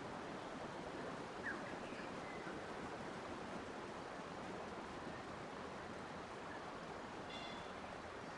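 Forest nature ambience: a steady rushing of flowing water, with a few faint, brief bird chirps, one about a second and a half in and another near the end.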